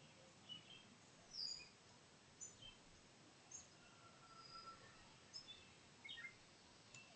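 Faint, scattered chirps and short whistles of songbirds over a quiet hiss of background noise.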